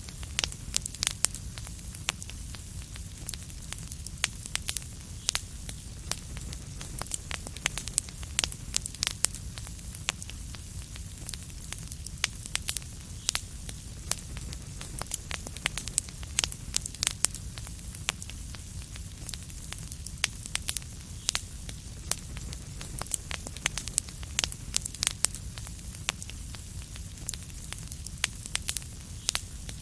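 Wood fire crackling: frequent irregular sharp pops and snaps over a steady low rumble and soft hiss.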